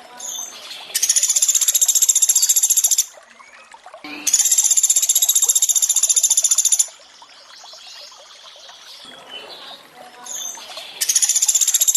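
Pelatuk beras woodpecker giving rapid, high trills in three bursts of two to three seconds each, the last starting near the end, over trickling water and faint chirps of other birds.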